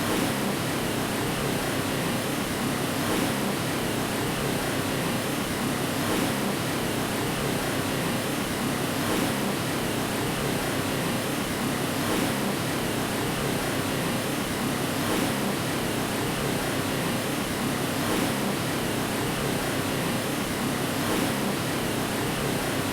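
Steady white noise for lulling a baby to sleep: an even, unbroken hiss with a slight swell about every three seconds.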